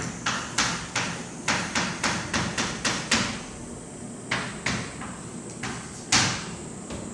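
Chalk on a blackboard: a string of sharp, irregular taps and short strokes as a formula is written, about two or three a second, with a short pause in the middle.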